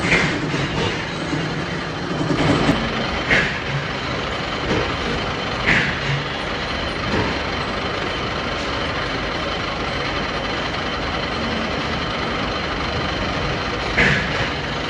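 Steady din of metalworking machinery in a sprocket factory, with a few sharp metal clanks now and then, one of the loudest near the end.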